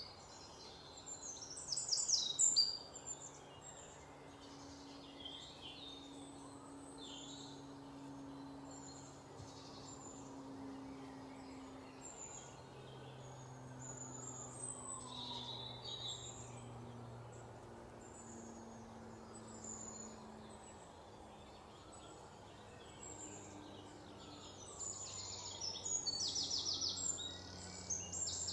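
Birds chirping and calling, with a rapid trill about two seconds in and more rapid trills near the end, over a faint low hum.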